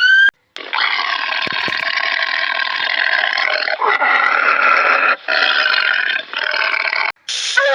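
An animal's long, drawn-out call in several parts, with short breaks between them.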